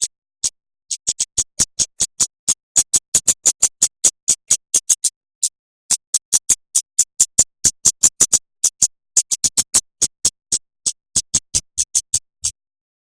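A recorded songbird training call of rapid, sharp clicking notes, about six a second, in runs broken by short pauses. These are the fast 'shot' (tembakan) notes used to tutor white-rumped shamas and magpie robins. It falls silent shortly before the end.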